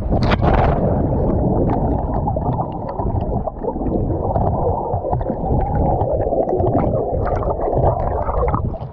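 Loud, muffled rumbling and gurgling of churning water, with small clicks and crackles over it, cutting off suddenly near the end.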